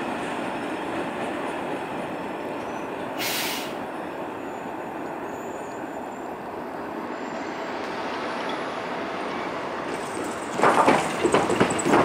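Steady rumble and rattle of a double-stack intermodal freight train's container cars rolling past and away as its rear end goes by. A brief hiss comes about three seconds in, and a run of loud knocks and clanks fills the last second or two.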